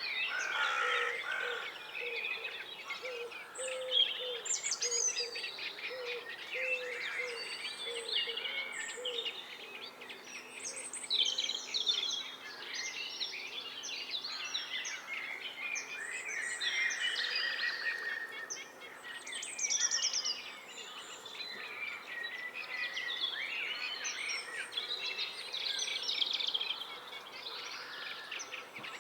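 Several songbirds singing at once in a spring dawn-chorus-like mix of overlapping phrases and chirps. A low note repeats steadily under them for about the first nine seconds.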